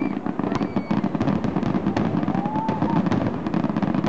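Aerial fireworks display: a dense, continuous barrage of many pops, cracks and bangs, several every second.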